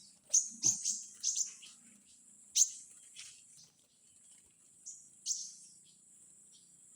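Small bird giving short, sharp, high chirps: a quick run of them in the first second and a half, then single chirps spaced a second or more apart, over a steady high-pitched whine.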